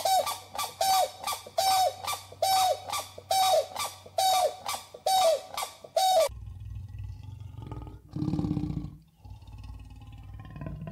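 Grey crowned crane giving a rapid series of loud honking calls, about one and a half a second. After about six seconds they stop abruptly and a leopard's low, rumbling growls follow, the loudest about two seconds later.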